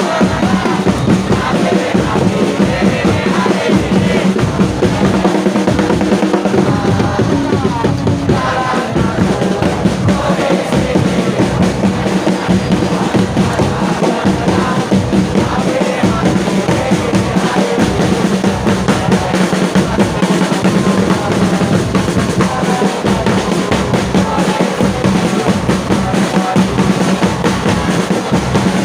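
A large crowd of football supporters singing and chanting together in the stands, over a steady pounding of drums.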